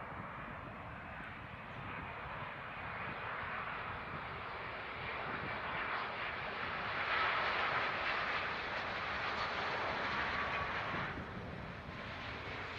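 Jet airliner's engines running as the aircraft passes, a rush that builds to a peak with a faint steady whine, then drops suddenly near the end.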